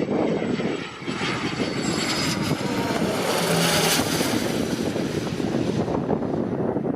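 A passing aircraft's engines swell to a peak about halfway through, with a high whine on top, then fade away. Gusty wind rumbles on the microphone throughout.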